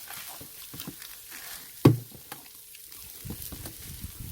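Pork neck sizzling on a grill over a charcoal brazier, with scattered crackles and pops as juices and fat drip onto the coals. One sharp knock about two seconds in.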